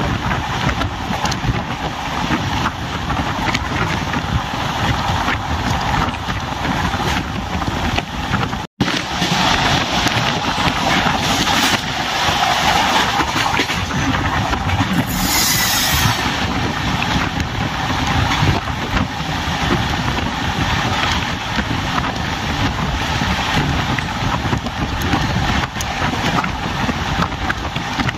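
Tamil Nadu Express passenger train running at speed: a steady rumble of wheels on the track, with wind rushing over the microphone. The sound cuts out for an instant just under nine seconds in, and there is a short high hiss about fifteen seconds in.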